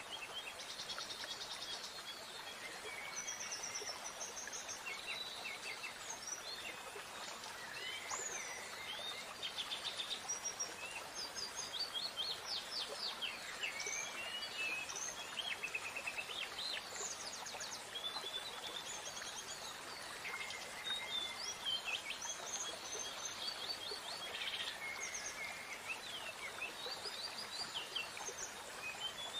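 Several birds singing and chirping at once, many short overlapping trills and calls, over a steady background hiss.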